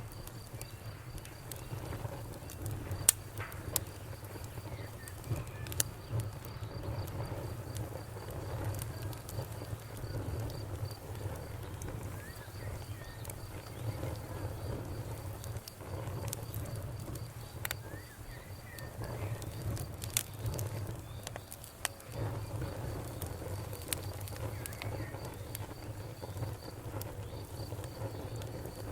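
Campfire crackling, with sharp pops scattered through it over a low, uneven rumble of burning. A night insect trills steadily at a high pitch, pausing briefly now and then.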